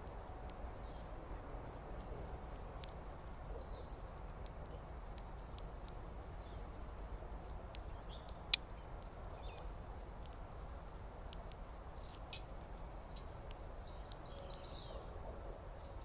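Faint, scattered bird chirps over a steady low background hiss, with a single sharp click about halfway through.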